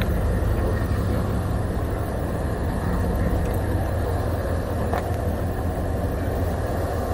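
A car engine idling steadily with a low hum, and a faint click about five seconds in.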